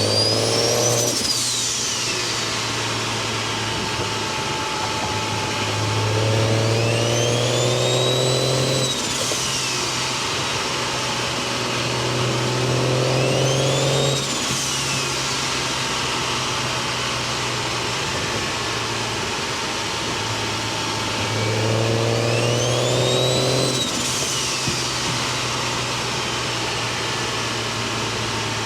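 Single-turbo BMW 335i inline-six idling and blipped to revs three times, each rev bringing a high turbo whistle that rises and then falls away as the revs drop. The whistle comes from the T51R 'jet fighter' compressor housing fitted to the turbo.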